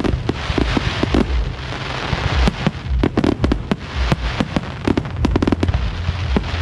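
Fireworks display going off in a rapid barrage: many sharp bangs and dense crackling, with deep booms underneath.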